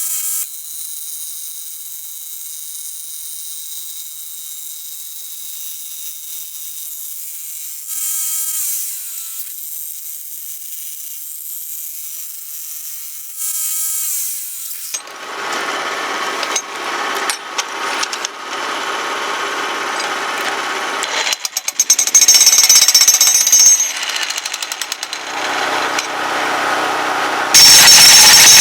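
Jackhammer breaking up a concrete pier, hammering rapidly in short bursts from about halfway, then running continuously and loudest near the end. Before that there is only a faint high whine with two brief louder bursts.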